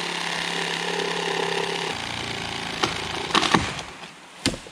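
Reciprocating saw (sawzall) cutting through a downed tree trunk, buzzing steadily until about two seconds in. A few sharp cracks follow, then a single loud knock near the end.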